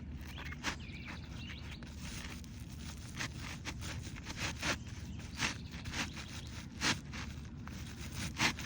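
Asphalt roof shingle scraping and rustling in short, irregular strokes as it is slid up under the shingles above.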